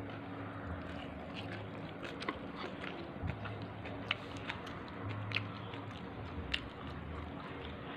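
Close-up mouth sounds of a person eating a hand-rolled mouthful of rice with sambal terasi: chewing, with small wet clicks and smacks at irregular intervals, over a steady low hum.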